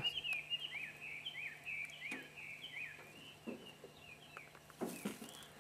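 A songbird singing faintly: a run of quick, sweeping chirps for about three seconds, then a few scattered notes. A short brushing noise comes near the end.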